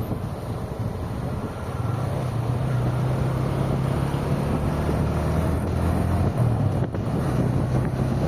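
Car driving along a highway: steady tyre and wind rush with a low engine drone that grows louder about two seconds in.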